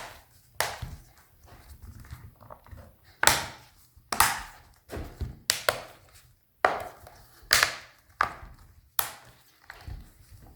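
The plastic back cover of a Google Nexus 10 tablet being pressed shut by hand, its clips snapping into place one after another: about ten sharp clicks at uneven intervals, roughly one a second.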